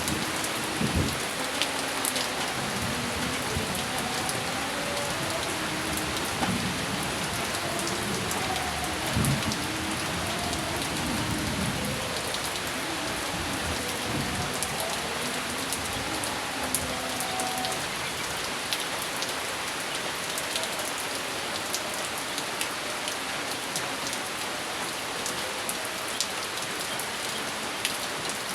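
Steady rain falling, with individual drops ticking sharply now and then. A low rolling rumble of thunder runs through about the first half and dies away.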